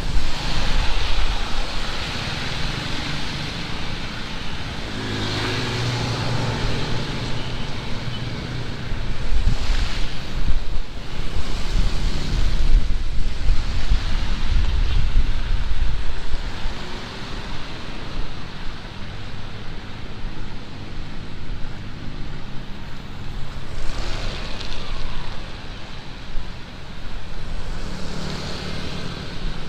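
Heavy rain pouring steadily, with strong wind rumbling on the microphone and swelling in gusts. A motor vehicle's engine passes about five seconds in and again near the end.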